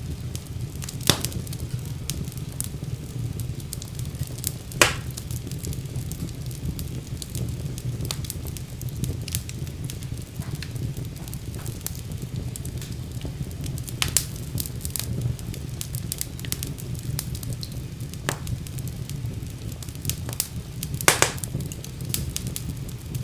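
Wood fire burning in a fireplace: a steady low rumble of flames with constant small crackles and a few sharp pops and snaps, the loudest about a second in, about five seconds in, and near the end.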